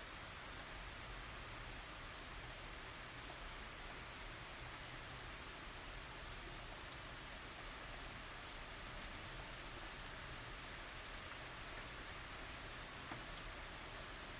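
Steady tropical rain falling, an even hiss of rain with many small drop ticks on top.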